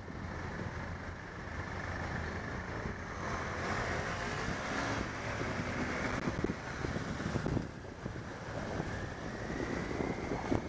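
Wind rushing over the microphone on top of a steady noise of road traffic.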